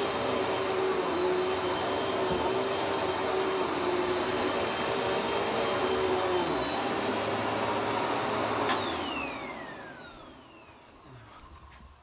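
Vacuum cleaner running steadily with a high motor whine, then switched off with a click near the end, its whine falling in pitch as the motor spins down.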